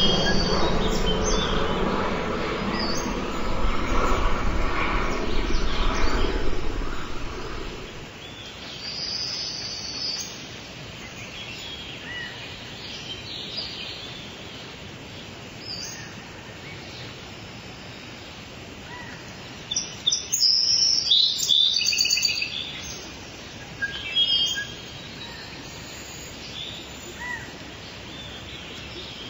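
A low rumble with a faint steady hum dies away about eight seconds in. Then songbirds at a backyard feeder call and chirp in short spells, loudest a little past the middle.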